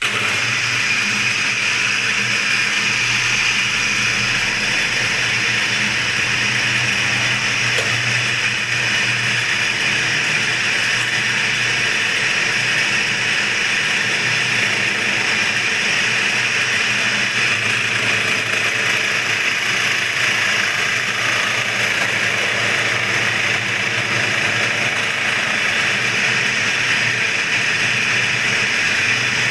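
A motor-driven machine running steadily while skimming a Yamaha V80 engine block face flat. It sets in abruptly and keeps an even, loud hiss over a low hum, with no change in speed.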